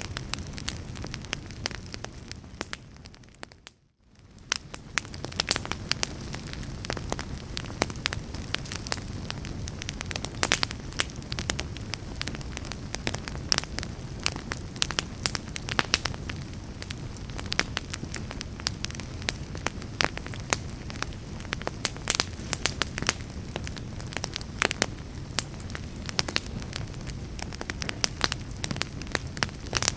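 Real log fire crackling in a fireplace: frequent irregular sharp pops and snaps over a low steady rumble of burning. About four seconds in, the sound fades almost to nothing and then swells back up.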